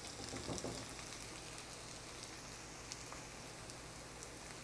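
Pork chunks and tomato paste frying gently in a nonstick pan: a soft, steady sizzle with scattered faint crackles.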